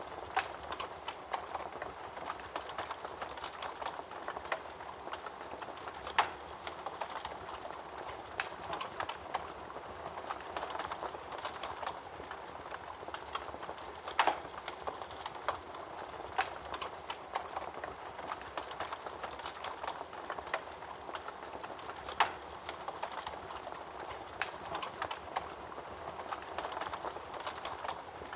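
Fire crackling steadily, with a constant run of small snaps and a few louder pops about six, fourteen and twenty-two seconds in.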